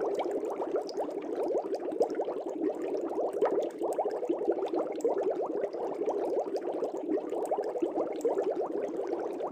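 Air bubbles streaming up through aquarium water: a steady, dense bubbling made of many quick little blips, without a break.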